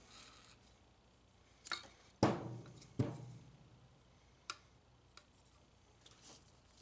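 Hand tools knocking on metal parts: a few light clicks, then two sharp metallic knocks about three-quarters of a second apart, each followed by a short ring, then a couple of faint ticks.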